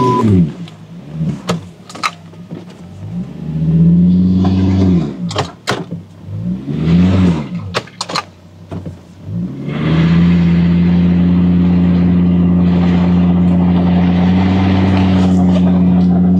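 SUV engine revved in short bursts that rise and fall, with a few sharp knocks between them. From about ten seconds in it is held at a steady, loud pitch.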